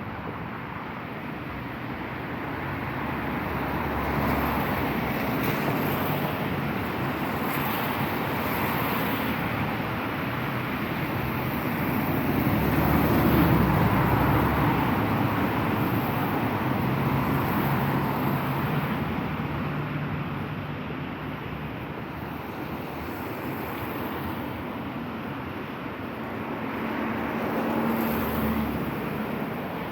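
Street traffic: cars passing one after another, the hiss of tyres and engine noise swelling as each goes by, the loudest about halfway through.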